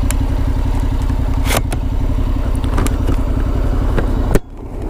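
Honda NC750X's parallel-twin engine running steadily under way, with a few sharp knocks. The sound drops away suddenly near the end and comes back.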